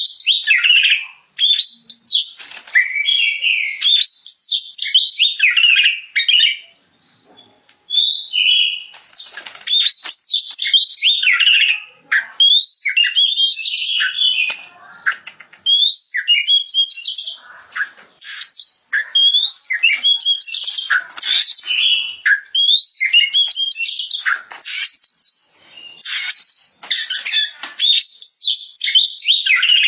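Oriental magpie-robin (kacer) singing its full, open song: a loud, varied run of whistled, gliding phrases and quick chattering notes, broken by short pauses about seven and twelve seconds in.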